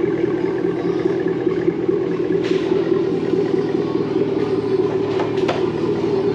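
Car engine idling steadily through its new exhaust, a loud even drone, with a few short sharp clicks about halfway through and near the end.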